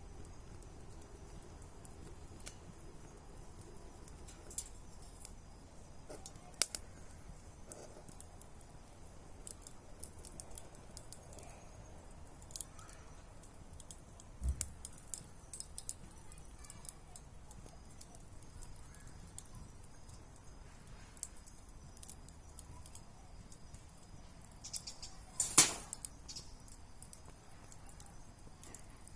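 Wood fire crackling: sparse, irregular pops and snaps, with the loudest cluster of pops near the end.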